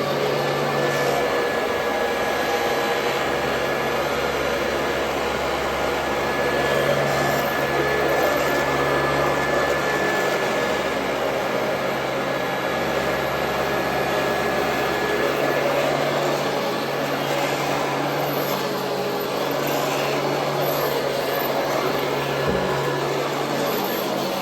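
Royal Model 2008 upright vacuum cleaner running steadily, a dense motor-and-fan rush with a thin, steady whine.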